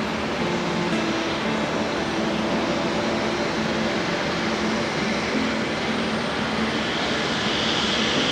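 Airbus A321neo jet airliner's engines running, a steady, loud jet noise with a few steady low tones; a higher whine grows near the end.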